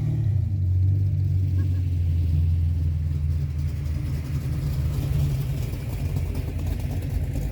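A car's engine and exhaust giving a deep, steady rumble as it drives past, easing off about four and a half seconds in while a lower engine sound carries on.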